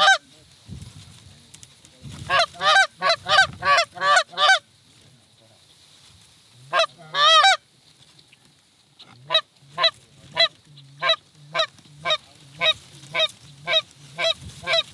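Goose honking: a quick run of about seven honks, a longer drawn-out call, then a steady string of honks about two a second.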